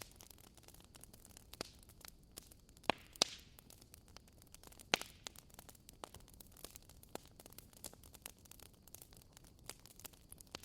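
Wood bonfire crackling: frequent small snaps over a faint hiss, with a few louder pops about three and five seconds in.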